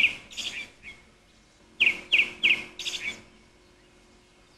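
A bird chirping: short, high notes that slur downward, a few in the first second and four more in quick succession about two seconds in.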